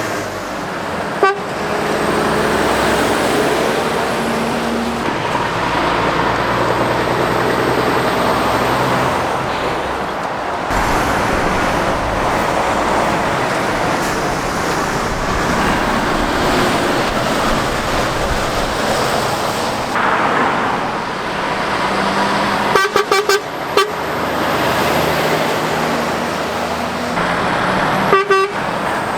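Steady heavy road traffic, lorries and cars passing close by, their engine and tyre noise swelling and fading. A single short sharp blip comes about a second in, and two quick rattling clusters of sharp hits come near the end.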